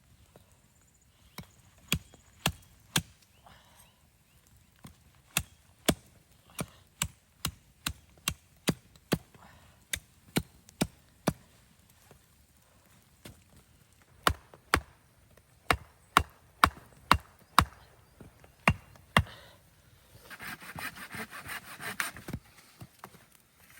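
Firewood being chopped by hand: sharp wooden strikes about two a second, in three runs with short pauses between them. Near the end comes a rough rasping scrape lasting about two seconds.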